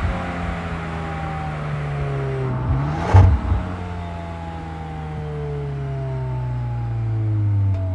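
Audi S3 8Y's 2.0 L TFSI turbo four-cylinder revved through its stock exhaust with petrol particulate filter. The revs climb quickly to a brief loud burst about three seconds in, then fall away slowly.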